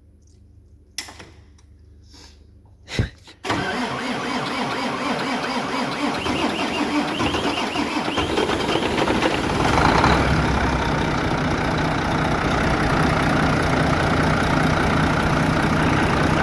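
Volvo FH13's 13-litre inline-six diesel being cranked over on the starter after a couple of clicks, then catching about ten seconds in and running steadily. This is a start of the freshly rebuilt engine.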